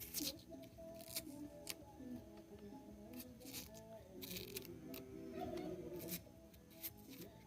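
Knife peeling a cassava root: short scraping cuts at irregular intervals, about one a second. Quiet background music plays underneath.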